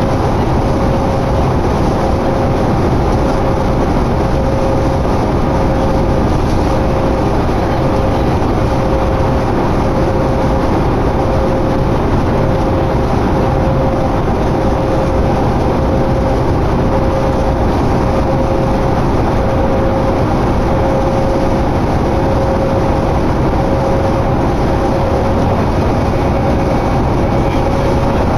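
Interior noise of a 2011 New Flyer D60LFR diesel articulated bus cruising at highway speed: a steady engine and road drone with a constant whine running through it.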